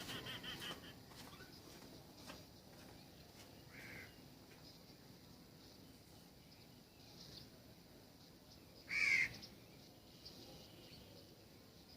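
Wild birds calling at a backyard feeder: a brief chatter at the start, a short call about four seconds in, and a louder short call about nine seconds in.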